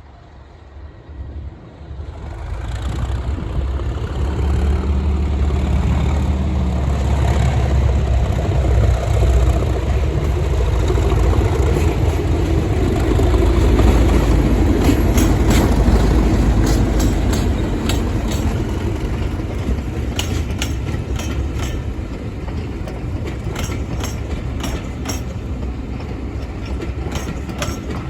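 Class 37 diesel locomotives' English Electric V12 engines running hard at speed, coming up loud about two seconds in and peaking about halfway through, then the clickety-clack of the train's wheels over rail joints through the second half.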